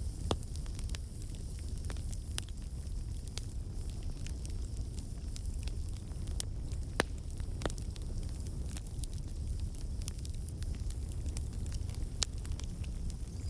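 Wood campfire burning: a steady low rumble of flames with sharp pops and crackles from the logs at irregular intervals, the loudest pop about seven seconds in. The crackling comes from water and sap in the wood turning to steam and escaping.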